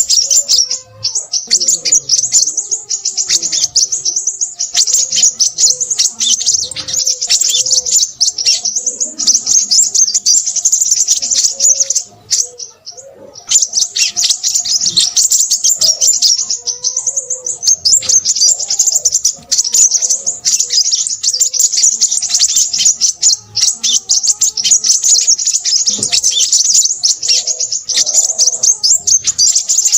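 Crimson sunbird singing rapidly: a dense, high-pitched chattering song that runs almost without pause. It breaks off for about a second and a half around twelve seconds in.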